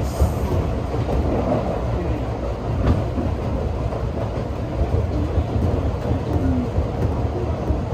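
Electric commuter train of the Alpico Kōtsū Kamikōchi Line running along the track, heard from on board: a steady rumble of wheels on rail, with a couple of sharp clicks from the rail joints.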